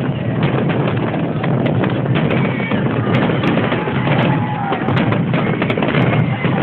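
Fireworks salute going off in a dense, continuous barrage of bangs and crackling, with a few faint whistles gliding through it.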